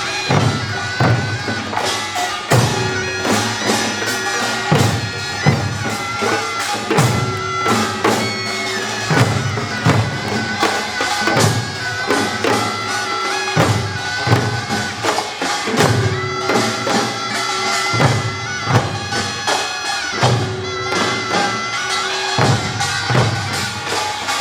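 Taepyeongso, the Korean double-reed shawm, playing a nasal, wavering melody over pungmul percussion striking steadily in rhythm.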